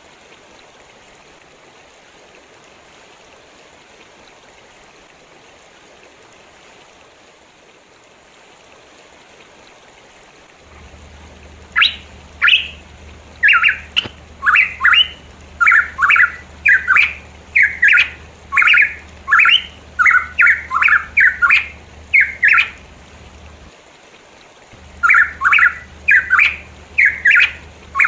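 Steady background hiss for about ten seconds, then a pitohui calls. It gives a fast run of short, harsh notes, about two a second, which breaks off for a couple of seconds near the end and then starts again.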